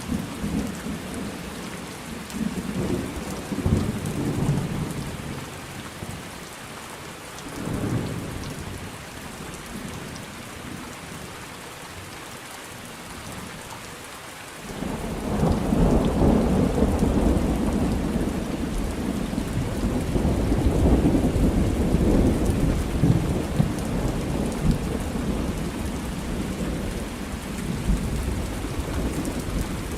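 Thunderstorm: steady rain with rolling thunder. The thunder rumbles through the first few seconds, drops to a quieter stretch of rain, then a long loud rumble of thunder sets in about halfway through and lasts to the end.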